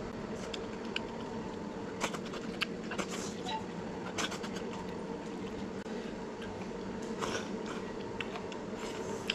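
Someone eating a bowl of noodles: chewing, with scattered small clicks and knocks of chopsticks against the bowl, over a steady hum.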